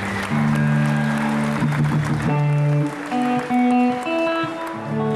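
Amplified guitar on stage playing slow, held chords that change every second or so, with crowd applause faintly underneath.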